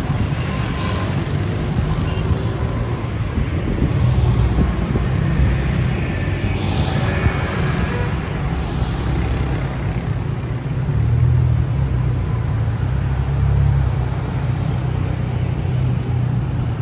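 Street traffic: a steady rumble of engines and tyres, with several cars passing close by, one after another, then another near the end.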